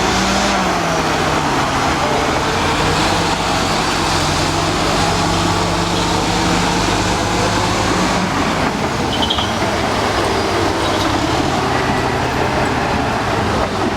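Old Caterpillar D8 bulldozer's diesel engine running steadily and loud while bulldozing. Its pitch drops shortly after the start and shifts again around eight seconds in.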